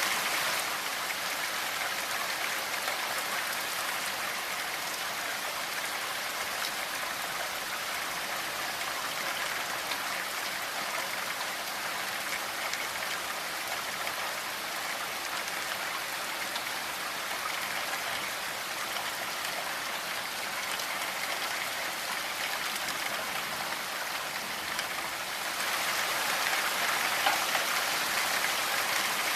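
Steady rainfall, a dense even hiss of drops, growing louder and brighter near the end.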